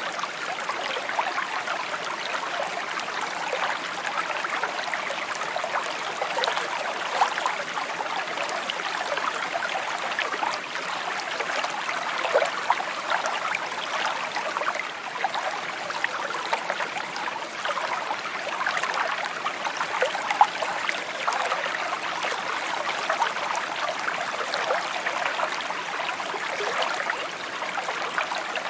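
Small stream babbling and trickling over stones, a steady flow with tiny bright splashes and gurgles running through it.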